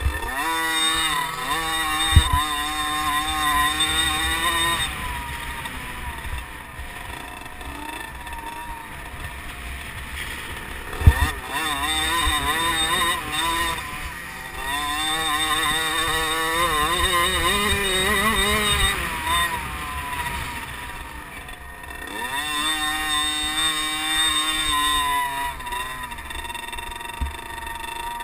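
Two-stroke 50cc motocross bikes racing, their engines revving up and down with each gear and jump and swelling loudest as bikes pass close, three times. Two sharp thumps cut through, about 2 seconds in and again about 11 seconds in.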